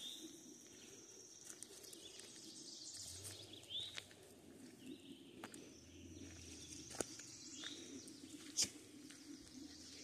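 Faint woodland ambience: a bird chirping briefly three times, about every four seconds, over steady background noise, with scattered light ticks like steps on gravel.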